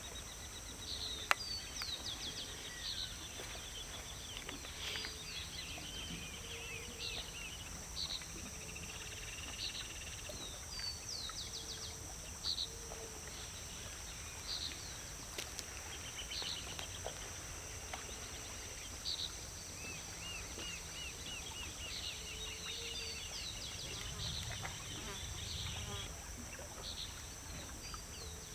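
Wild birds calling, short chirps and trills repeated throughout, over a steady high-pitched drone, with one sharp click about a second in.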